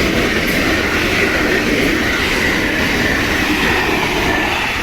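Local electric train running past at close range: a loud, steady rush of wheels on rail that eases off at the very end.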